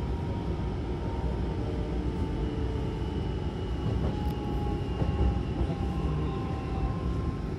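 Hankyu commuter train running as heard from inside the car: a steady rumble of wheels on track, with a faint thin whine, as the train pulls into a station.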